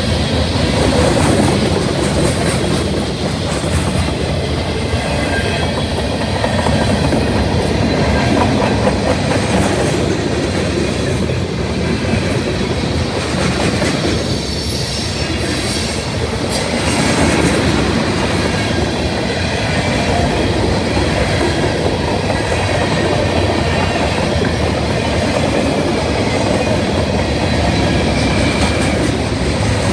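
Mixed freight train of covered hoppers, tank cars and boxcars rolling past close by: the cars' steel wheels run on the rails in a loud, steady rumble and clatter.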